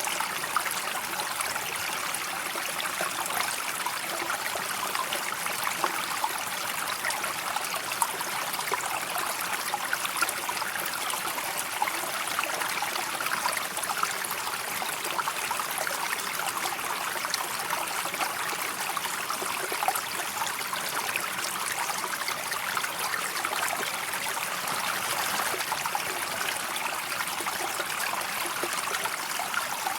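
River water running steadily: an even rushing noise full of many small splashes.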